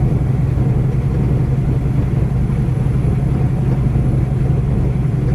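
Steady low drone of a vehicle's engine running, heard from inside the cab.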